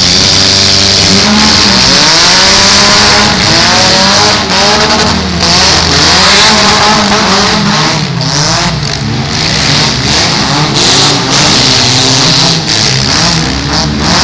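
Several compact demolition derby cars' engines revving hard at once, their pitch repeatedly rising and falling as they accelerate and back off.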